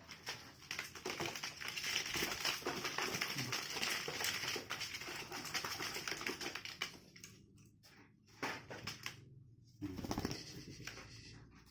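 Cardboard shipping box being opened and handled: rapid dense rustling and clicking for most of the first seven seconds, then scattered clicks with two short louder scrapes near the end.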